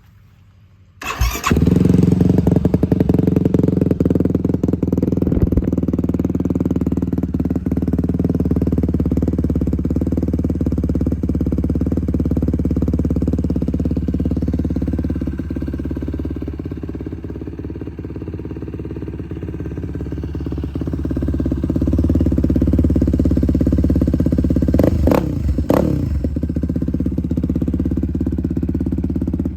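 2012 Yamaha YFZ450R's single-cylinder four-stroke engine, breathing through a full Dasa aftermarket exhaust, starting about a second in and then running steadily at idle. Near the end there are two quick throttle blips.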